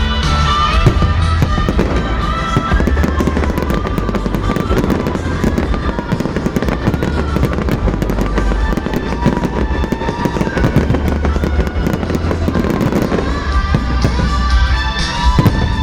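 Fireworks crackling and popping in rapid, dense volleys, over music with a heavy bass and a wavering melody.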